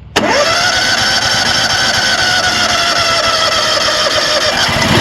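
The Mechmaxx 36-inch sawmill's gasoline engine being started on choke. It comes in suddenly with a whine that rises and then holds steady for about four and a half seconds, and the sound changes near the end.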